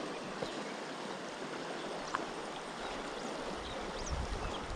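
Steady rush of flowing river water. A low rumble joins near the end.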